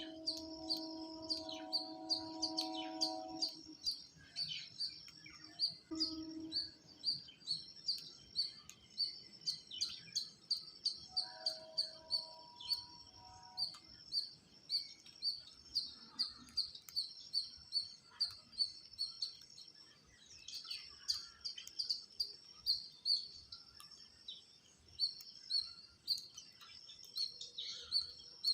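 High, short chirps repeated over and over, about two loud ones a second with quicker softer ones between, from a small bird or squirrel. A steady tone of several pitches sounds at the start for about three seconds and again briefly about eleven seconds in.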